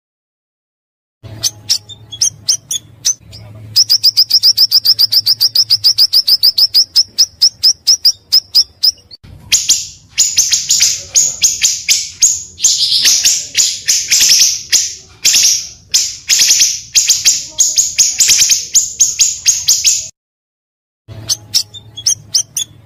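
Recorded song of the pancawarna bird: after a brief silence, a fast, even, high trill of rapidly repeated notes, then a long run of loud, high chattering calls. The song breaks off for about a second and starts over near the end, as a looped recording does.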